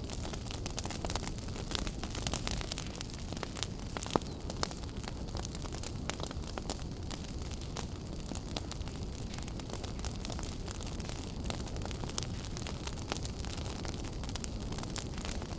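Wood fire burning in a fireplace: a steady low rumble of flames with constant crackling and small pops, one sharper pop about four seconds in.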